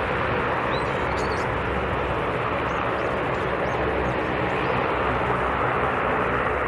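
Jet aircraft engines running: a steady rushing noise that holds an even level throughout.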